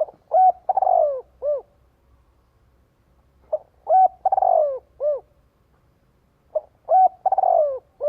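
Spotted dove cooing, repeating its song three times about three seconds apart. Each phrase is two short coos, a longer rough coo that falls in pitch, and a last short coo.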